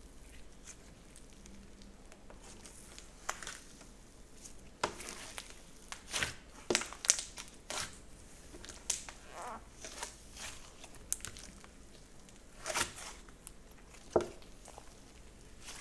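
Slime being worked by hand, giving irregular sharp pops and crackles between quieter stretches, with the loudest pops about seven seconds in and near the end.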